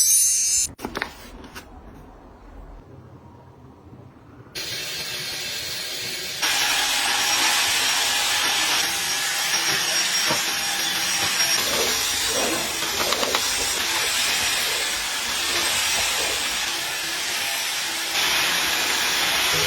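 A steady, even hiss sets in about four and a half seconds in and grows louder about two seconds later, after a few clicks near the start.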